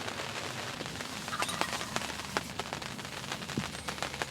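Steady rain, with many single drops ticking sharply and irregularly close by.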